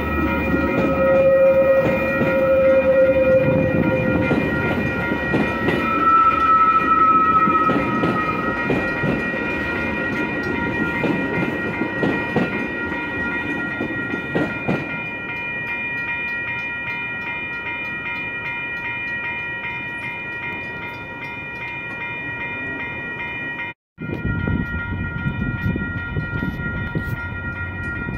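Metra bilevel commuter train rolling past a grade crossing: rumble and clatter of wheels on the rails, with two brief single-tone squeals in the first eight seconds. Steady ringing of the crossing bells runs under it. The rumble eases off after about twenty seconds, and after a short cut the bells ring on.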